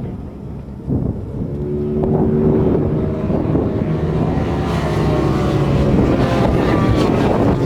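Racing motorcycles passing at speed, their engines howling with pitch that rises and falls as they go by. The sound swells about a second in and stays loud.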